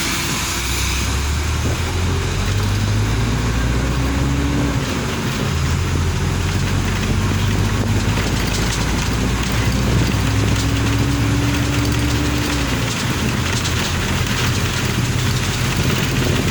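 A car driving on a wet road: a steady hiss of tyres and rain over the engine. The engine note rises twice as it accelerates and then drops back.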